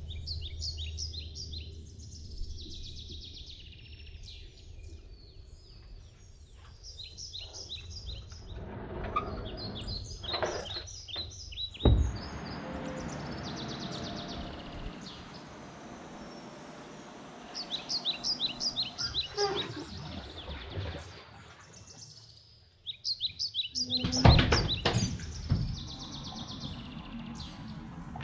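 Small birds chirping in quick runs of short, high notes, again and again. Two dull thumps stand out, one near the middle and one near the end.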